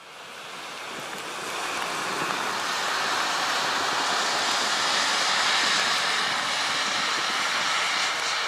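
A vehicle approaching on the road: a rush of tyre and road noise that swells over the first couple of seconds and peaks about five to six seconds in.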